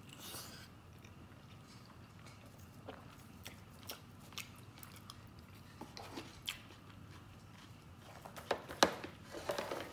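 A person biting and chewing soft stewed fatty pork, with scattered wet mouth clicks. Near the end come a few louder sharp clicks and knocks as chopsticks and a dish are handled.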